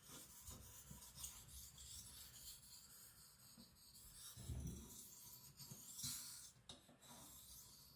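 Faint rasping strokes of a 75Cr1 carbon-steel knife blade being drawn across a whetstone to sharpen the edge.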